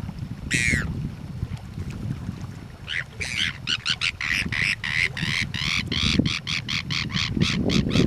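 A bird calling: one short call falling in pitch, then after a pause a quick run of repeated calls, about four or five a second, lasting to the end. A low steady rumble of wind and water lies underneath.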